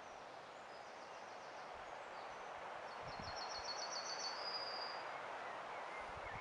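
Steady background noise with small birds calling in the distance: a few high chirps early on, then a fast trill of high notes about three seconds in, ending in a short held note.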